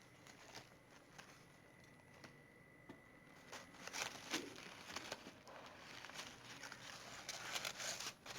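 Faint rustling, crinkling and light scratching in a plastic basket, picking up about three and a half seconds in and coming in irregular bursts.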